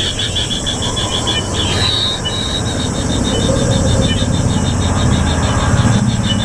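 Kingfisher chicks' begging calls: a fast, pulsing high trill of about eight to ten pulses a second, with a few short rising-and-falling notes, over a steady low rumble.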